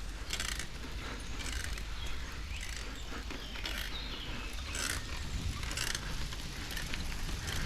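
Bicycle rolling slowly on a dirt path, its freewheel and drivetrain ticking and rattling in short bursts every second or so, over a steady low rumble of tyres and wind on the microphone.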